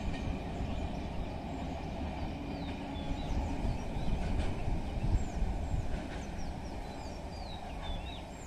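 Low rumble of a passenger train's coaches running away down the track, easing off in the second half. Birds chirp over it in short, falling notes.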